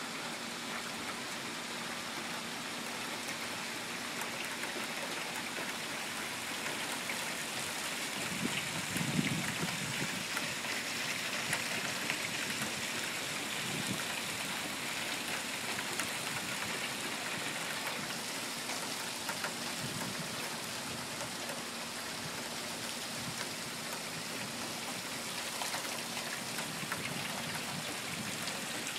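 Steady rain falling, a dense patter of many small drops, with a brief low bump about nine seconds in.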